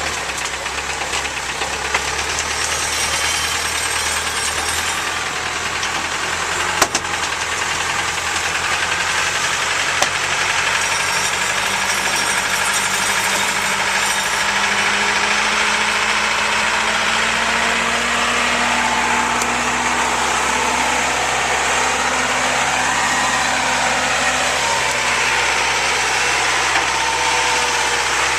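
A vehicle engine running steadily, its pitch drifting slowly up and down, under a steady rushing noise.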